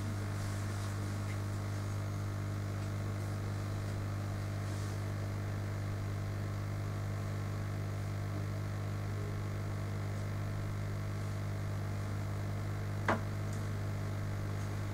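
Steady electrical mains hum, with a single short click about thirteen seconds in.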